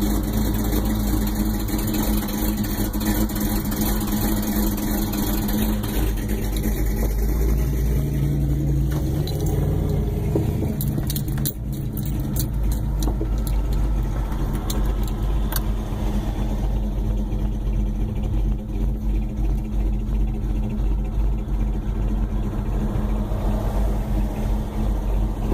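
A 1968 Plymouth Road Runner's V8 running at low speed with a steady low rumble as the car pulls away and creeps ahead, heard through the windshield of a car behind it. The sound shifts briefly about ten seconds in, with a few light clicks around then.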